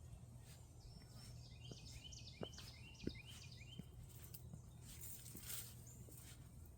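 Faint bird song: a quick run of short, high chirping notes in the first half, over soft, evenly spaced footsteps on a trail.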